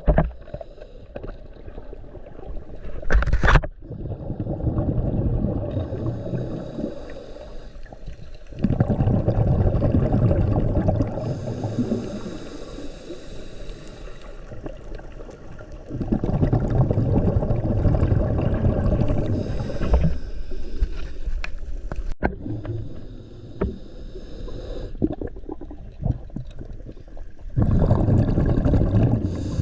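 Scuba diver breathing through a regulator underwater: a bubbly rumble on each exhalation every few seconds, alternating with a hissing inhalation.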